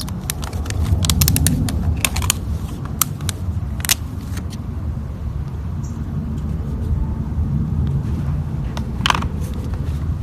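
Slime being squeezed and pressed by hand, with scattered sharp clicks and pops that come thickest in the first few seconds, over a steady low rumble.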